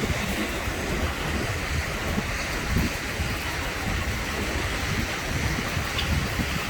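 Heavy rain pouring steadily in a severe thunderstorm, with strong wind gusting on the microphone as a fluttering low rumble.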